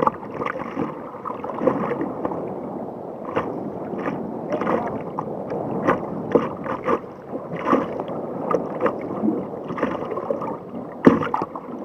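Water sloshing and gurgling around a kayak on the sea, with frequent irregular sharp splashes.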